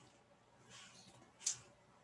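A quiet pause in speech: a man's faint breath, then a short, sharp mouth click about a second and a half in.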